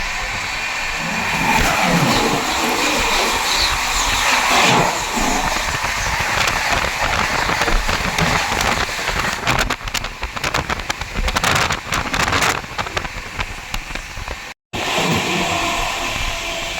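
Loud running noise of a moving express train, a steady rush with a stretch of rapid clattering in the middle. The sound drops out for a moment near the end.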